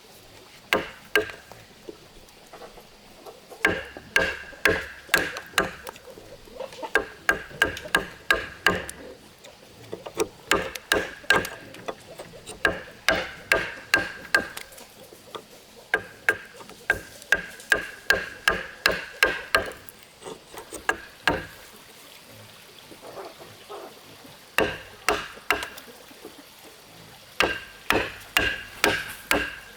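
Hammering in runs of quick strikes, about two or three blows a second, with short pauses between runs. Each blow rings with a clear metallic note.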